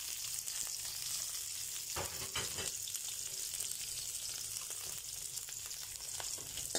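Chopped onion and garlic sizzling in hot olive oil in a pan, with a steady high hiss. A metal spoon stirs and knocks against the pan a few times around two seconds in.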